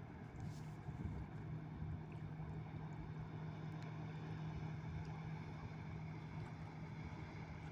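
A river cruise ship's engines running past with a steady low hum, over a broad wash of wind and water noise.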